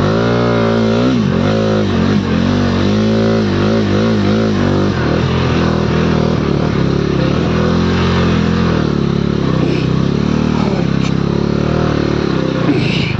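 Motorcycle engine running under load, its pitch rising and falling quickly and repeatedly over the first few seconds as the throttle is worked, then running steadier.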